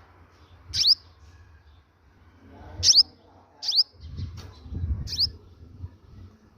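A bird chirping: four short, high notes, each a quick downward sweep, a second or two apart. A low rumbling noise runs under the chirps from about four seconds in.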